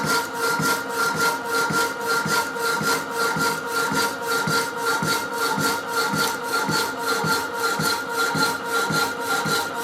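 Rapidor power hacksaw cutting through a metal bar, the blade rasping back and forth in an even rhythm over the steady hum of its motor, with the cut nearly through.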